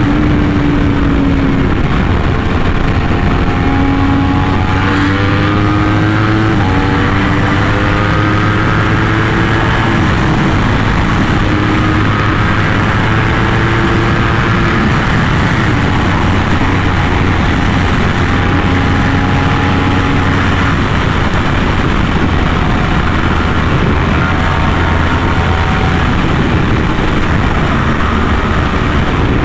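Yamaha R1M's crossplane inline-four running through an SC Project exhaust while riding, its pitch climbing slowly and shifting in steps several times, over a steady rush of noise.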